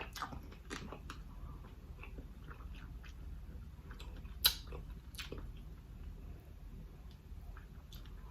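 Mouth sounds of eating seafood and rice close to the microphone: scattered soft chewing and lip-smacking clicks, one sharper smack about four and a half seconds in.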